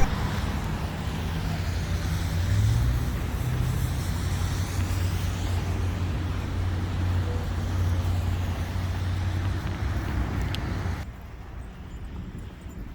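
Steady motor-vehicle traffic noise with a low engine hum, which drops away abruptly about eleven seconds in.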